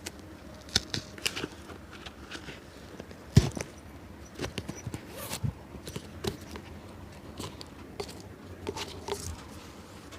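Cobbler's hand tools working on an old shoe: irregular taps, clicks and short scrapes, with one sharper knock about three and a half seconds in.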